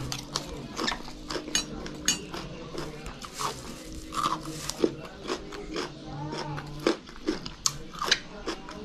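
Close-up crunching and chewing of raw vegetables: irregular wet crunches and mouth clicks as bitter melon, okra and other uncooked pinakbet vegetables are bitten and chewed.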